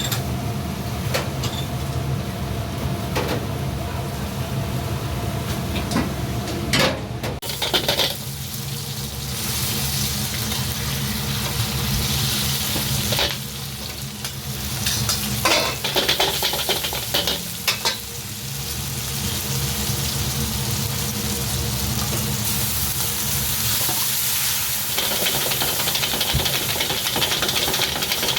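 Food sizzling and frying in a wok, with knocks and scrapes of a metal ladle against it, over a steady low kitchen hum. The sizzling rises in bursts from about a quarter of the way in.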